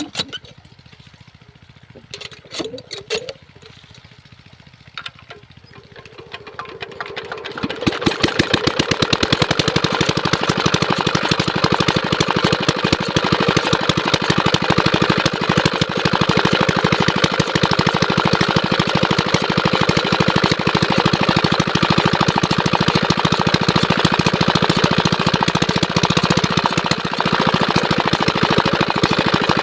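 Diesel engine driving a water pump starts after a few quiet seconds with some knocks, catching about seven seconds in, then runs steadily at full power with a rapid, even firing beat.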